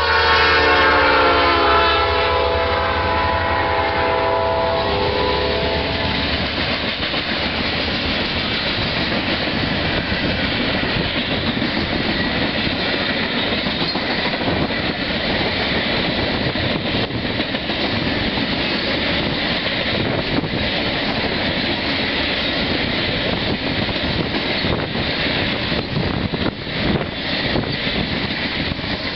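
Diesel-hauled freight train passing close by. The lead locomotive's air horn sounds for the first few seconds, its pitch dropping as it goes past, over the rumble of the engines. Then comes the steady rolling noise and wheel clatter of the hopper cars, with sharper clicks near the end.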